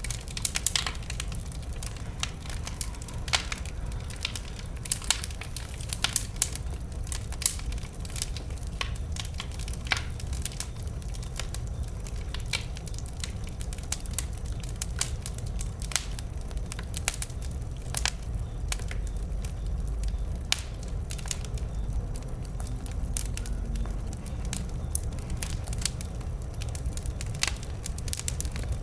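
Wood fire burning: irregular sharp crackles and pops of burning logs over a steady low rumble of the flames.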